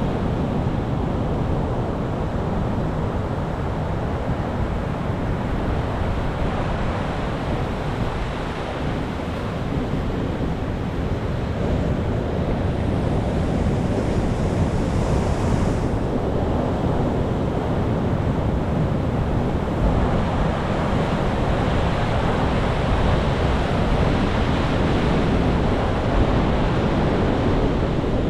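Ocean waves breaking and washing on the shore in a steady rushing surf, swelling and easing slowly, with a low rumble of wind on the microphone.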